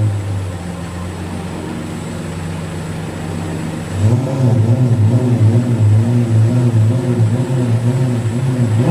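Engine running with a steady low hum, turning louder from about four seconds in with a regular throbbing.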